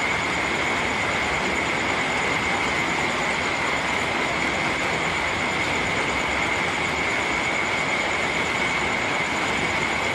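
Steady rain, an even hiss, with a constant high-pitched tone running through it.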